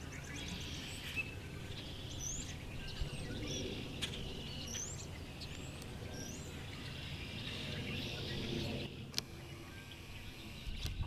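Several backyard songbirds chirping and calling in short sweeping notes, over a steady low background rumble, with a few sharp clicks.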